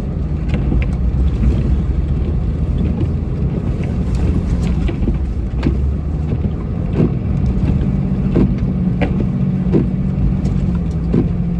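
Snow-plow truck's engine running steadily while plowing deep snow, a low drone with scattered short knocks and clunks.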